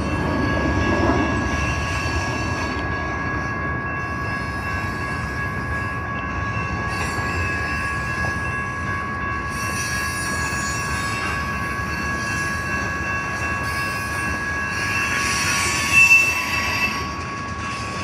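Freight train cars rolling past with a steady rumble of wheels on rail, over two steady high ringing tones. A brief, sharper, higher squeal comes about 16 seconds in.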